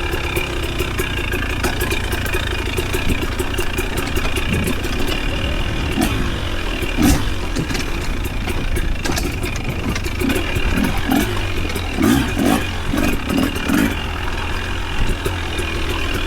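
Off-road vehicle's engine running at low revs while crawling a slick, wet trail, with many scattered sharp clicks and a run of short engine surges in the second half.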